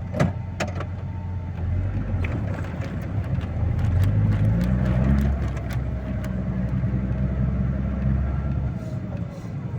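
Snowplough engine working under load, heard from the cab while the blade cuts into the snow bank at the road's edge. It pulls harder, rising in pitch and growing louder about four to five seconds in, then settles back, with a couple of sharp knocks near the start.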